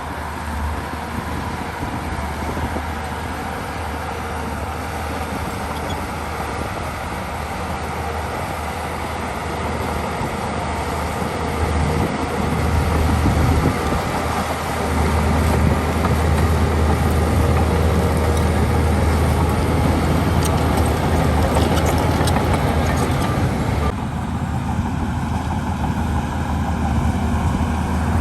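Diesel engine of a heavy earthmoving machine running steadily with a deep, continuous drone, growing louder about halfway through.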